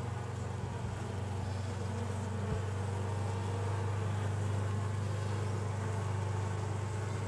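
Honeybees buzzing steadily around an open hive, a constant low hum of many wings.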